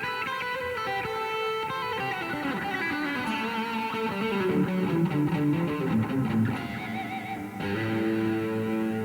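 Electric guitar played through a Revv G3 preamp/distortion pedal into an amp: a run of changing notes and riffs, settling into a held chord near the end.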